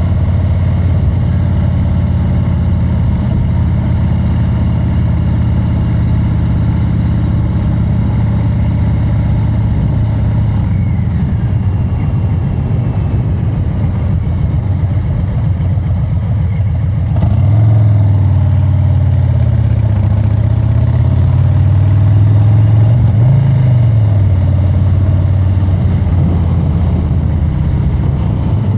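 Harley-Davidson Street Bob 114's Milwaukee-Eight 114 V-twin running through an aftermarket SP Concepts exhaust while riding, a steady low exhaust note. About 17 seconds in the throttle opens and it gets louder, the pitch rising and falling for several seconds.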